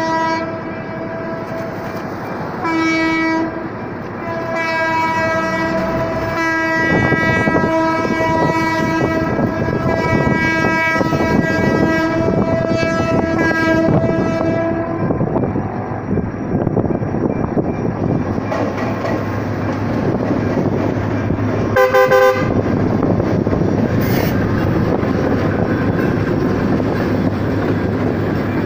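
EMD GT22CW diesel locomotive's horn sounding long blasts with short breaks as the train approaches a level crossing, falling silent about halfway. The diesel locomotive's engine and wheels then rumble over the crossing as it and its coaches pass, with one short toot a little later.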